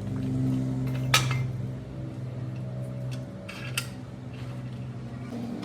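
A steady machine hum with two sharp metallic clinks, the louder about a second in and the other near four seconds.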